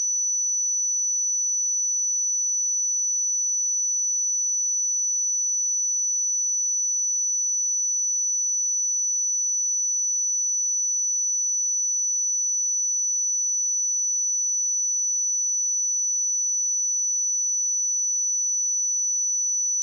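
A steady, unbroken 5958 Hz sine-wave test tone: a single high-pitched pure tone held at constant level.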